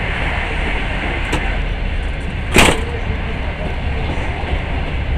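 Passenger train running along the track, heard from inside the carriage: a steady low rumble and hiss, with one loud sharp knock about halfway through.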